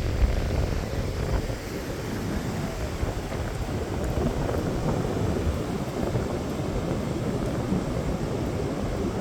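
Strong wind buffeting the microphone: a steady low rumble with no breaks.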